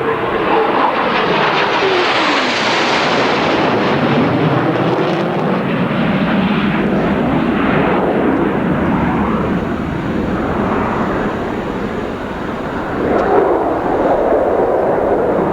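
F-15C Eagle's twin Pratt & Whitney F100 turbofans in a loud jet pass: the whine drops in pitch as the fighter goes by about two seconds in, followed by a steady, sweeping jet rush that swells again near the end.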